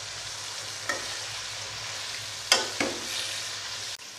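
Chicken pieces sizzling in hot oil in an aluminium pot, frying until the meat turns from pink to white. A metal spoon stirring them knocks against the pot three times, loudest about two and a half seconds in. The sizzle drops suddenly to a quieter level near the end.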